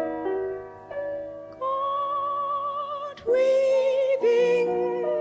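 A song's closing phrase: a woman sings a few long held notes with vibrato over a soft accompaniment, the loudest notes about three and four seconds in.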